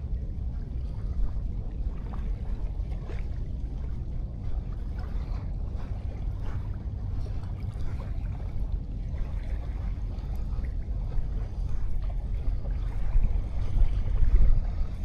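Sea waves washing on a sandy beach under a steady low rumble of wind on the microphone, swelling louder briefly near the end.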